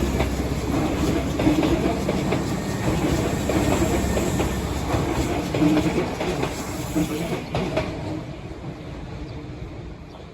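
Hankyu 3300 series electric train running at speed, its wheels clacking over rail joints, then fading steadily over the last few seconds as it moves away.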